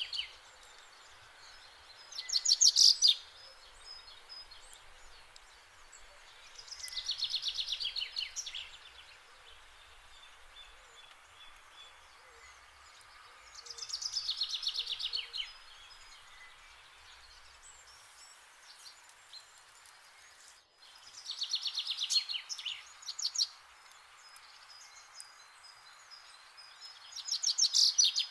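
A bird's rapid pulsing trill, each lasting about a second, heard five times over a faint steady background hiss.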